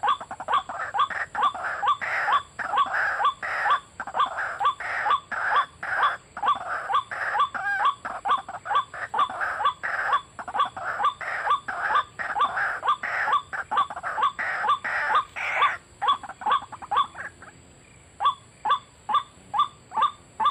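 White-breasted waterhen giving its repeated harsh 'ruak-ruak' call, about two or three notes a second, in a long unbroken run that breaks off briefly near the end and then starts again.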